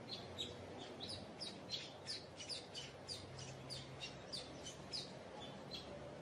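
A bird calling repeatedly: a quick series of short, high, falling chirps, about four a second, that thins out near the end.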